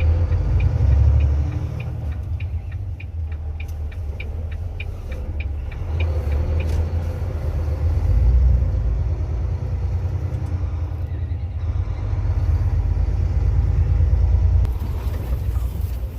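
Volvo semi truck's diesel engine running at low speed, heard from inside the cab, with steady ticking of about two to three clicks a second for roughly the first six seconds, typical of a turn signal. A hiss comes in near the end.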